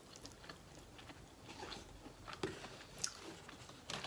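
Close-up chewing and wet mouth sounds of a person eating a mouthful of Chipotle burrito bowl, with irregular soft clicks and smacks.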